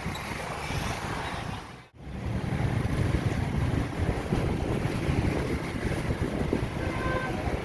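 Strong gusting wind blowing across the microphone, a steady rush with a heavy low rumble from the gusts on the mic. The sound cuts out for an instant about two seconds in, then the rumble comes back stronger.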